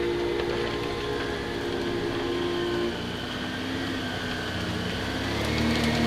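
Off-road 4x4 vehicle's engine running steadily. It eases off about halfway through and picks up again near the end.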